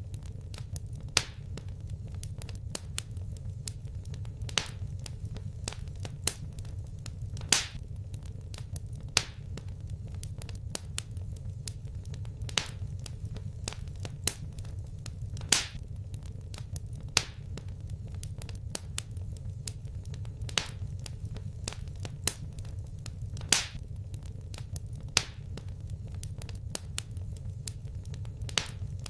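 Wood fire crackling in a fireplace: sharp pops and snaps every second or two, a few louder than the rest, over a steady low rumble of the flames.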